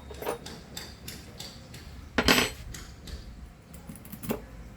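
Small metal tools and parts clinking and tapping during hand work on a small vacuum cleaner motor as its carbon brush is pried out with a thin spatula, with one sharp clack about two seconds in and a lighter one near the end.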